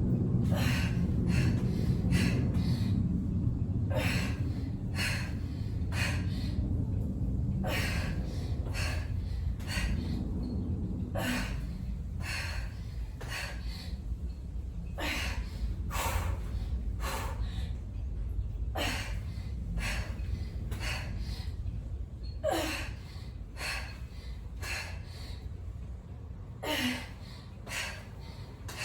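A woman breathing hard through exertion: short, sharp gasps and exhales, about one or two a second, while doing push-ups with knee tucks. A steady low hum sits underneath and fades about a third of the way through.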